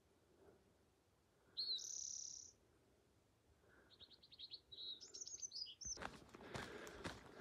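A songbird singing: a rising note into a high note held for nearly a second, then a quick run of short notes and a jumble of higher sliding notes. Footsteps on a dirt trail start near the end.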